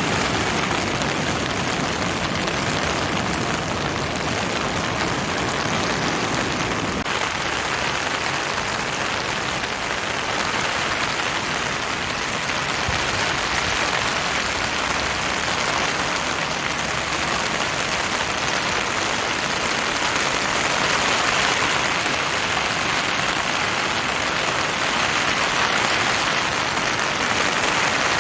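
Steady rushing noise of heavy typhoon rain and water, even throughout, its lower rumble dropping away about seven seconds in.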